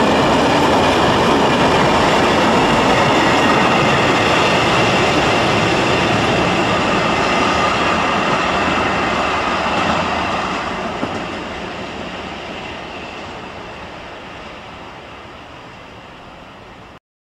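Freight train of loaded hopper wagons rolling past, wheels and bogies rattling over the track with a thin high squeal. After about ten seconds the sound fades away as the train recedes, then cuts off suddenly near the end.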